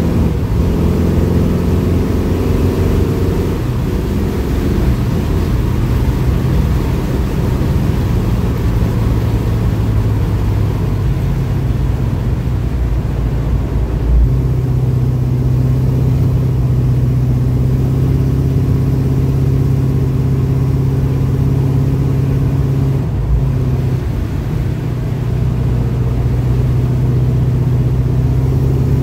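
Engine and exhaust of a 1969 Pontiac Firebird cruising, heard from inside the car: a steady low drone that shifts in pitch now and then. A single brief thump about fourteen seconds in.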